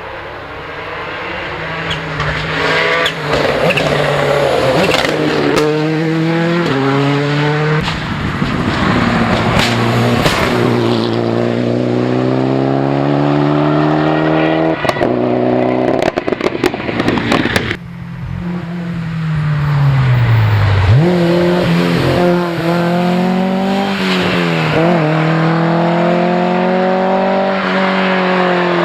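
Group B rally car engines revving hard through the gears, pitch climbing and dropping with each shift. About halfway through there is a run of sharp cracks, and the sound briefly drops away before an engine revs up and down again.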